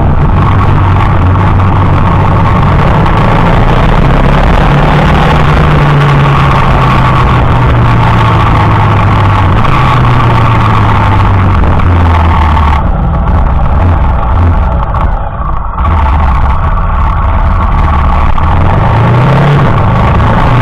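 Motorcycle engine running as the bike rides along, very loud and close to the microphone. Its pitch shifts with the throttle, easing off for a few seconds a little past the middle and rising again near the end.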